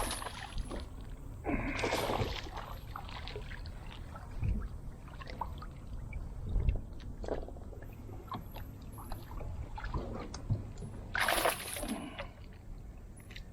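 Water splashing and sloshing beside a kayak as a hooked fish is fought up to the boat, with louder splashes about two seconds in and again near the end, and scattered small clicks between.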